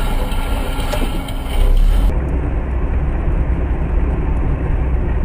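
Steady road and engine noise of a moving car, as picked up by an in-car dashcam. About two seconds in, the sound changes abruptly and turns duller, with a heavier low rumble.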